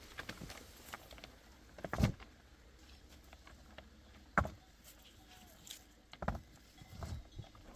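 A handful of separate dull knocks a second or two apart, the loudest about two seconds and four seconds in, with smaller ones near the end.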